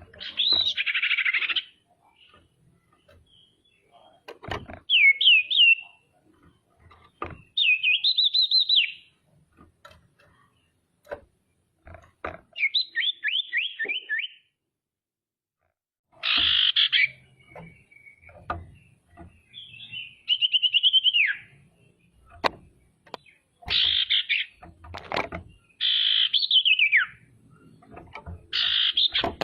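Female common iora (cipoh/sirtu) singing: about ten short, high-pitched phrases, some rapid trills and some falling whistled notes, repeated with brief pauses between them.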